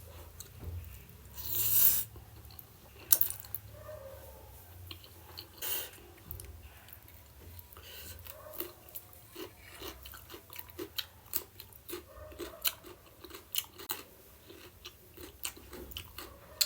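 A person eating: chewing and biting with crunchy bites and many short mouth clicks, coming closer together in the second half.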